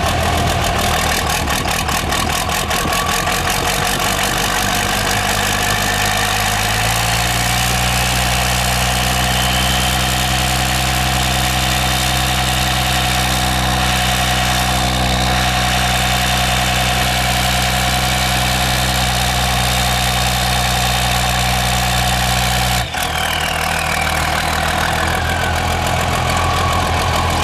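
12-valve Cummins inline-six diesel running steadily. About seven seconds in its speed rises to a higher steady note, held until it drops suddenly near the end.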